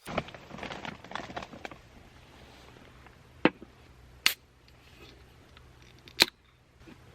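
Close handling noise: rustling and clicking for about two seconds, then three separate sharp clicks or knocks a second or two apart, over a faint steady low hum.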